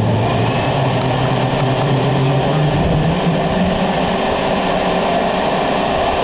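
A homemade turbojet being spun up before ignition by a vacuum cleaner used as its starter: a steady loud rushing whir, with a low hum that rises a little in pitch over the first few seconds.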